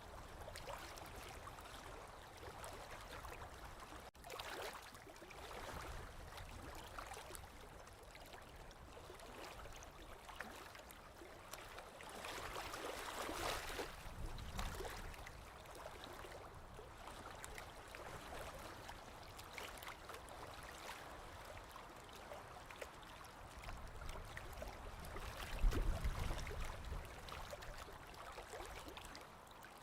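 Small waves lapping on a lakeshore, a soft wash of splashes that rises and falls, swelling about halfway through. Near the end a brief low rumble is the loudest moment.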